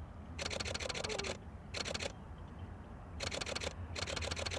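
Canon R5 shutter firing in rapid bursts: four runs of fast, evenly spaced clicks of differing lengths, the longest about a second.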